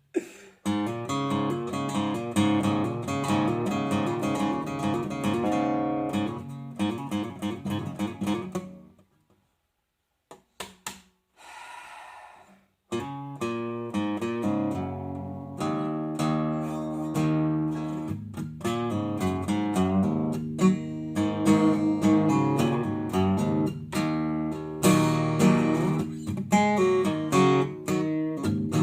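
Guitar playing, a run of plucked and strummed notes that breaks off about nine seconds in and starts again about four seconds later.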